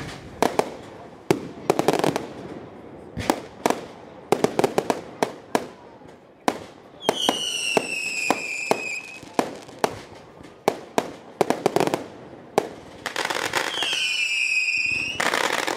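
Consumer fireworks going off: a rapid run of sharp bangs from bursting shells, with two whistles that slide downward in pitch, one about seven seconds in and another near the end.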